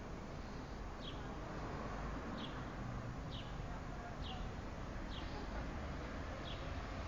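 A small bird chirping faintly, one short high note falling slightly in pitch about once a second, over a steady low outdoor background rumble.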